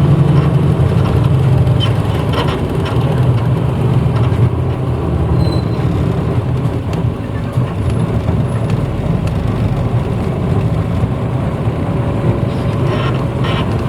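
Engine of a 1994 Hino Blue Ribbon U-HT2MPAA city bus running under way, a steady low drone heard from inside the passenger cabin, easing slightly after about two seconds, with a few short rattles and clicks from the body.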